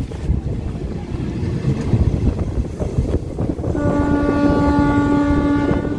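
Passenger train running along the track, with a steady rumble and rattle of the carriage heard through its open door. A little before four seconds in, the locomotive's horn sounds one long, steady blast.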